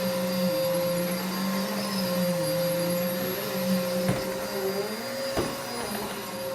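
Vacuum cleaner running steadily, its motor pitch wavering slightly up and down, with two sharp knocks a little over a second apart past the middle.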